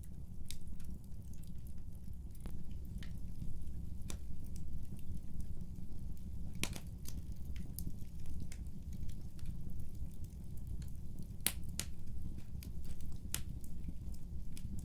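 Wood fire burning in a fireplace: a steady low rumble of flames with irregular sharp crackles and pops from the burning wood, a few louder snaps among them.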